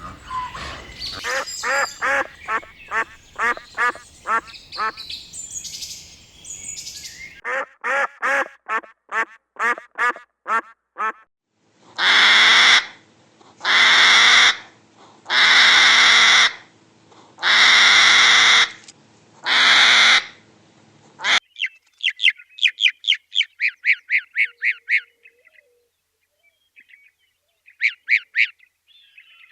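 Farm birds calling in a string of short clips: quick repeated pitched calls, then five long, loud, harsh calls about two seconds apart, then fast high chirping.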